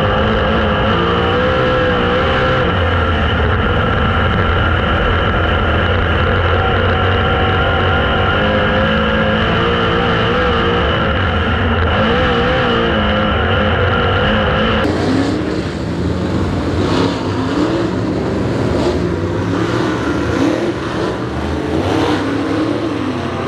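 Super late model race car engines running hard. A steady, high-pitched drone gives way sharply, about two thirds of the way in, to a rougher engine sound that rises and falls in pitch.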